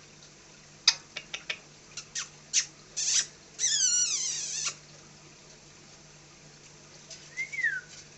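Pet Indian parrot calling: a quick run of short, sharp chirps, then a longer screech that falls in pitch, and after a pause a short whistle that rises and falls near the end.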